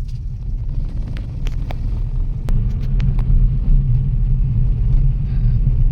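Steady low rumble of a car on the move, with a few faint clicks, getting a little louder after about two seconds.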